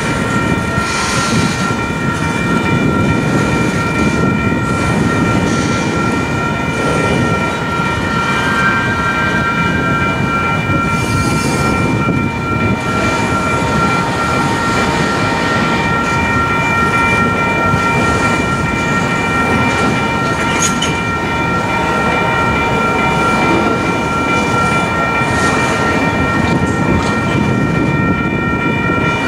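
Double-stack intermodal well cars of a freight train rolling past close by: a steady rumble and clatter of wheels on rail, with a steady high ringing tone held throughout.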